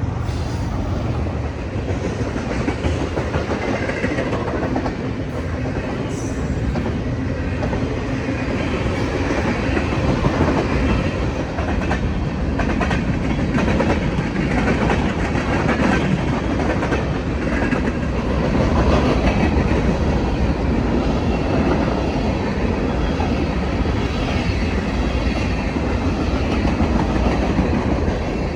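A train rolling past at close range: a steady heavy rumble with the wheels clacking over rail joints.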